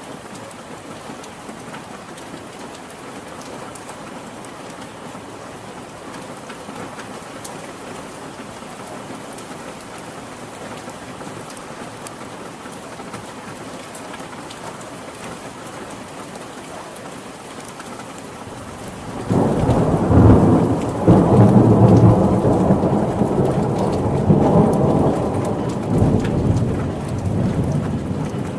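Steady heavy rain hissing on surfaces. About two-thirds of the way through, a rumble of thunder breaks in suddenly, rolls on loudly for several seconds and slowly fades under the rain.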